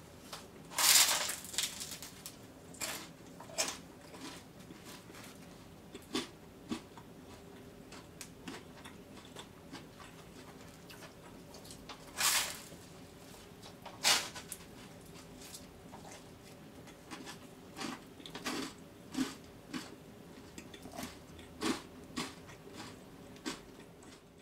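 A person biting into and chewing a slice of toast topped with fried egg and ketchup. There are crisp crunches, loudest about a second in and twice around the middle, with smaller chewing clicks and mouth sounds between them.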